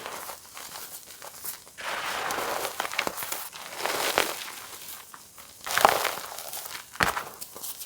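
Reformed gym chalk being crushed: a series of crumbly, crackling crunches, each lasting about a second, with the sharpest crunches near six and seven seconds in.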